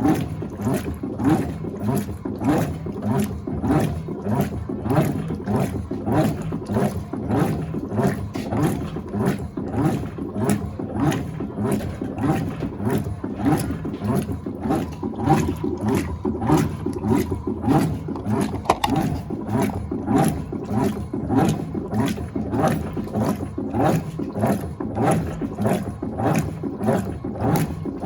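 Electrolux LTA15 top-loading washing machine agitating a load in water: a regular swishing and churning that pulses at about two strokes a second.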